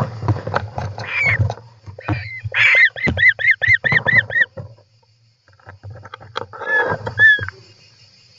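European rollers calling inside the nest box: a rapid run of about eight short rising-and-falling calls, about five a second, with a few more calls later, amid scratching and shuffling knocks against the box. A steady low hum runs underneath.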